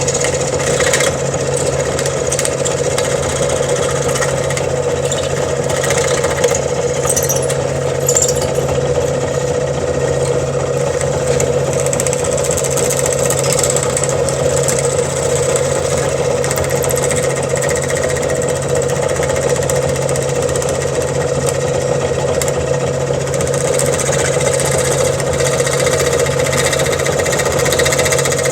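Bandsaw running steadily while its blade cuts through a sheet of plexiglass.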